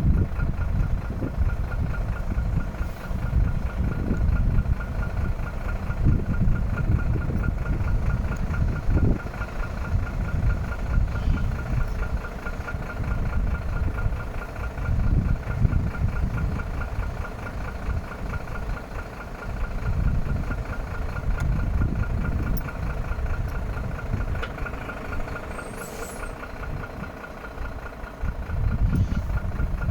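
Diesel engine of an Iveco AD260S45 truck idling, with an uneven low rumble and a steady high whine running alongside.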